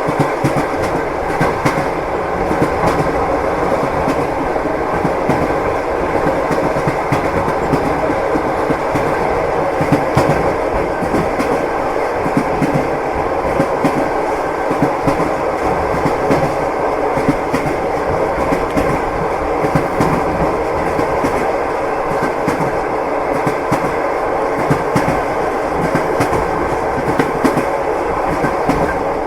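Train wheels knocking over the rail joints, a steady clickety-clack of clicks over the continuous rumble of a moving railway carriage.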